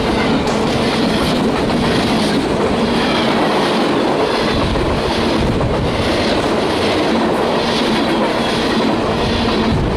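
Freight train cars rolling past at close range: steady wheel-on-rail noise with a swell about once a second as the wheel sets pass.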